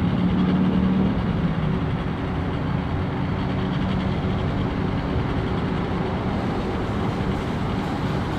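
A motor vehicle engine running steadily, a low hum over outdoor noise, slightly louder in the first second.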